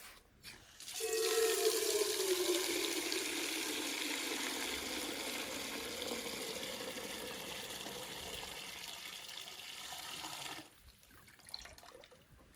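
Water running from a tap in a steady stream, starting about a second in with a brief tone sliding down in pitch. It is shut off sharply about ten and a half seconds in.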